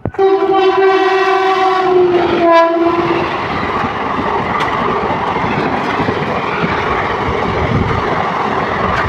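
Train horn sounding one long blast that dips slightly in pitch at its end, then a second short blast, followed by the loud, steady rush and rattle of the train running on the track.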